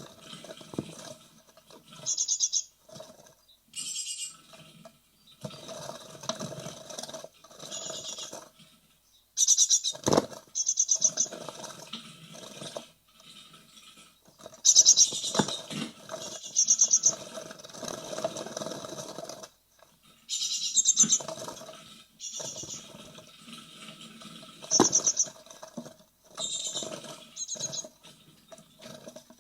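Great tit nestlings about to fledge, calling inside a nest box in short, high-pitched trilled bursts, over the scratching and scrabbling of the chicks moving about. Two sharp knocks stand out, about ten seconds in and again near twenty-five seconds in.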